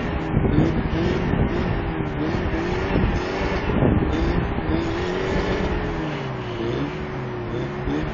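Toyota Tacoma pickup engine revving up and down again and again while its tires spin in deep snow: the truck is stuck in a snow-filled ditch and the wheels find no grip. The engine's pitch swings up and down several times and sinks lower for a while about six seconds in.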